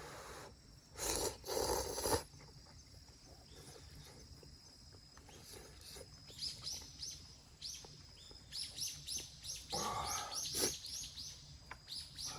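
A small bird calling over and over in quick, short, high chirps that each slide downward, starting about halfway through and going on to the end. About a second in comes a loud, noisy rush lasting about a second, with a shorter one near the end.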